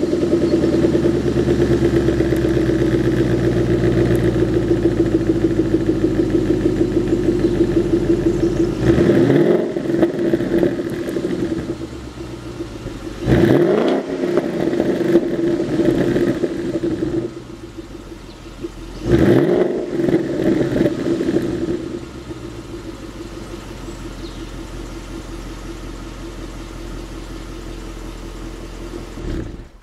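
Ford Mustang GT's 5.0 V8, breathing through a Ford Racing dual exhaust, idling and revved sharply three times, each rev dropping straight back to idle. It is quieter in the second half and cuts off at the end.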